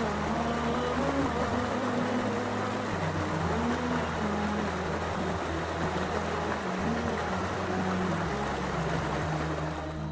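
Steady rushing of water, with low held musical tones stepping slowly in pitch underneath.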